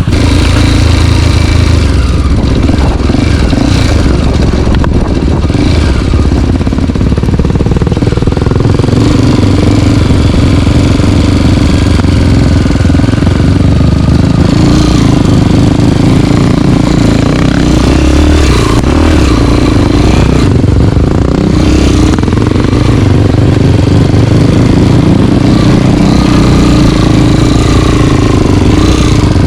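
Single-cylinder four-stroke trail motorcycle engine running close up while riding, its note rising and falling with the throttle.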